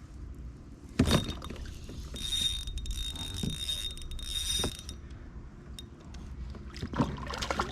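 Fishing reel being cranked to bring in a hooked small bass, a steady whirring for about three seconds in the middle. A sharp knock about a second in and another near the end.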